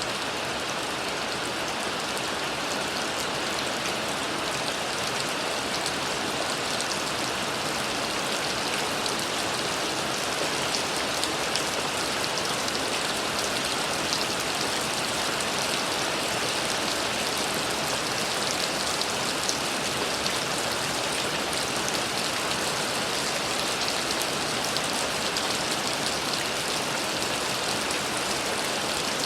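Steady rain falling, an even hiss with many fine drop patters, unchanging in strength.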